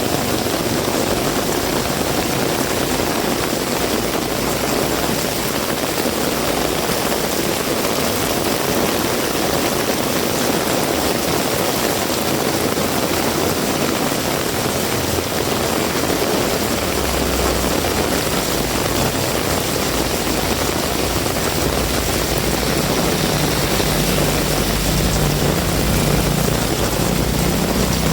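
Heavy rain pouring down as a steady, dense hiss. A low rumble joins in a little past halfway and grows stronger near the end.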